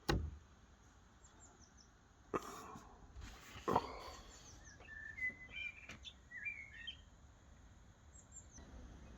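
Small birds chirping faintly, in short sliding chirps clustered a few seconds in, with a few sharp knocks earlier on.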